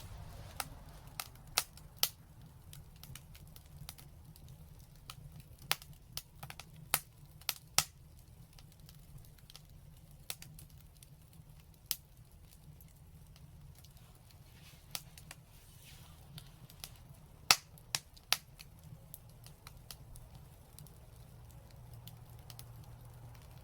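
Fire crackling, with irregular sharp pops scattered over a soft hiss and a steady low hum. The pops come in clusters, the loudest about three-quarters of the way through.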